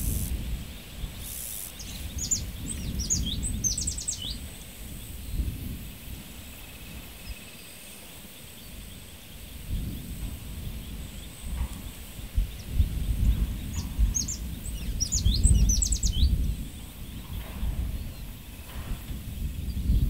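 Open-country ambience: a small bird sings two short phrases of quick, high, sliding notes, about twelve seconds apart, over a low rumble of wind that rises and falls in gusts.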